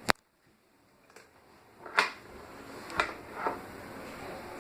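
A few sharp clicks: one at the very start, then about two seconds of near silence, then three more clicks, with a steady low hum or hiss coming back under them.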